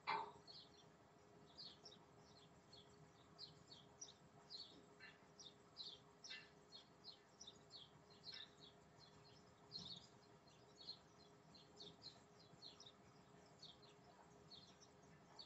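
Faint, short, high chirps from small birds, repeated irregularly a couple of times a second, over a low steady hum.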